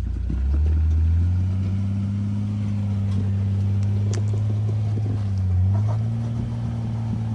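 A Jeep's engine runs at raised revs under load as it crawls over a rock ledge, its rear lower control arm hung on the rock. The engine note steps up about half a second in and again near six seconds in, with a few faint knocks from the rock and chassis.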